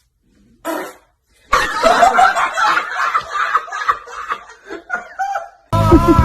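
A person laughing, about four seconds of broken, uneven laughter starting about a second and a half in. Loud music cuts in near the end.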